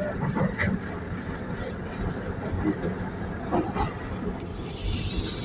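Passenger train running along the track, heard from inside the carriage: a steady low rumble with scattered knocks and rattles, and a faint high whine rising near the end.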